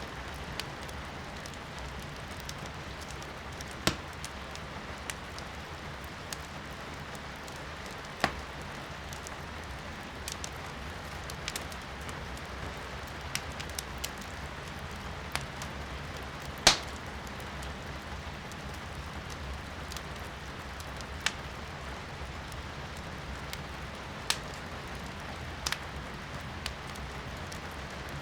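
Firewood burning in a fireplace, crackling with scattered sharp pops, the loudest about two-thirds of the way in, over a steady hiss of rain heard from inside the room.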